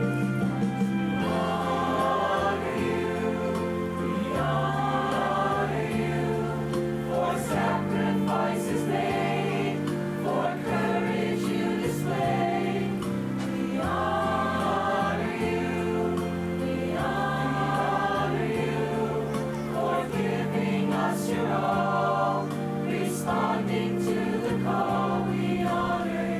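A choir singing a slow song in long held chords, the bass notes changing every few seconds.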